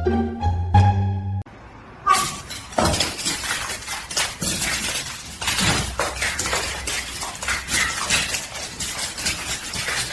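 Plucked-string music briefly, then after a cut a long stretch of dense clattering and clinking of hard objects, with crash-like knocks throughout.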